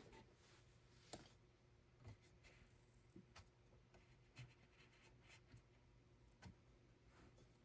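Near silence, with faint, irregular light clicks and taps, about a dozen, over low room hum.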